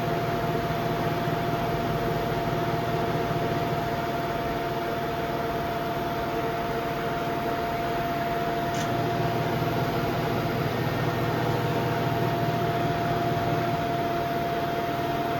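Samsung washing machine spinning steadily at speed with a new drum spider arm fitted: an even hum with a constant whine and no knocking or wobble, the sign that the drum is now running balanced.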